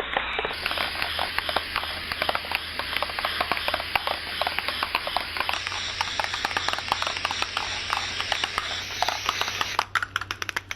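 Aerosol spray paint can spraying: a steady hiss with rapid clicks running through it, cutting off about ten seconds in.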